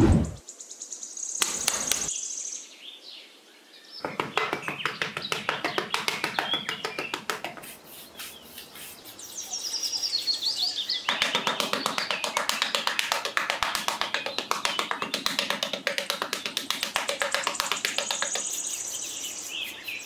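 Small metal hand trowel scraping and tapping across sand in quick repeated strokes, with birds chirping now and then.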